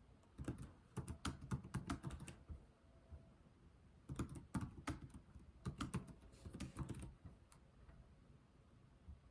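Slow typing on a computer keyboard: short runs of key clicks separated by pauses, stopping about seven seconds in apart from one last keystroke.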